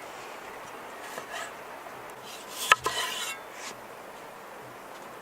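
A few short scraping and rubbing sounds with one sharp click about two and a half seconds in, like food or utensils being handled during cooking, over a steady background hiss.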